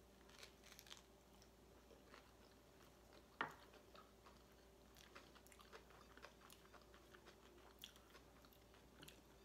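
Faint chewing and biting into a bacon sandwich on white bread, with small crunchy clicks from the bacon and one louder click about three and a half seconds in.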